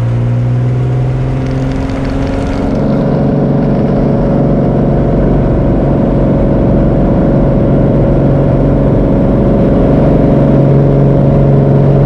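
Cessna 210K's six-cylinder Continental engine and propeller at takeoff power, the pitch rising over the first few seconds as power comes up, then holding steady.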